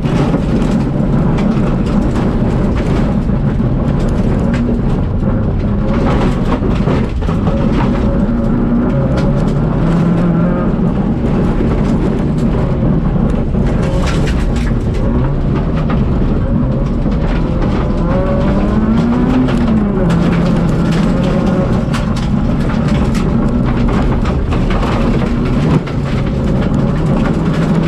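Citroën Saxo VTS four-cylinder rally car engine working hard through corners, its pitch climbing and dropping again and again as the driver accelerates, lifts and shifts, with a short dip about 26 seconds in.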